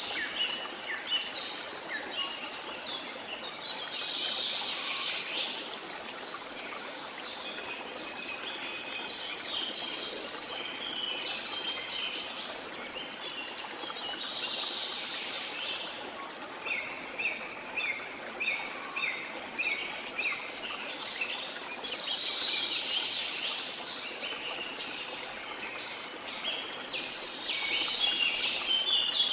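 Many birds singing and calling over the steady rush of a waterfall, with a quick run of short repeated chirps about halfway through.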